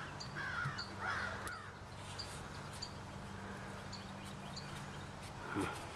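Bird calling: a few harsh calls in the first second and a half, with a faint high chirp repeating about every half second throughout.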